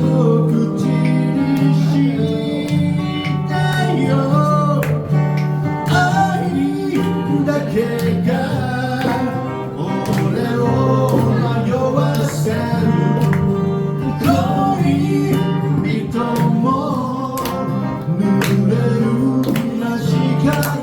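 A band playing live, led by guitar, in an instrumental passage of a song.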